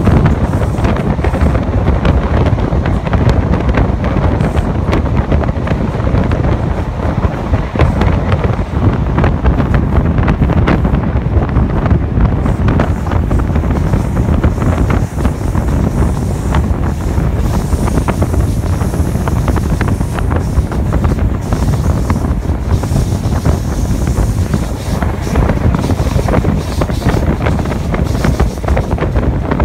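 Wind buffeting the microphone at the open window of a moving InterCity 125 (HST) train, over the steady rumble of the coach running on the rails.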